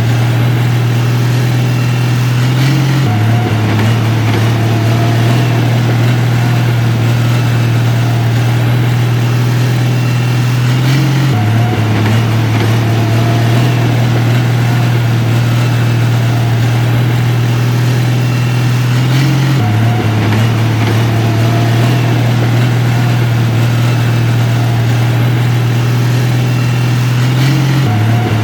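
Heavy diesel engine of construction machinery running steadily, a loud low drone that shifts slightly in pitch about every eight seconds.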